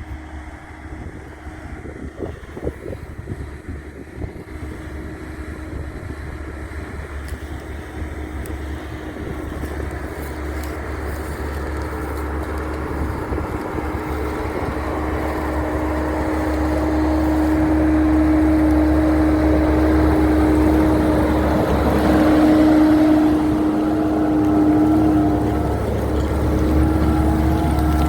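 Tractor engine running steadily while pulling a moldboard plough, growing louder over the first half and then holding at full level.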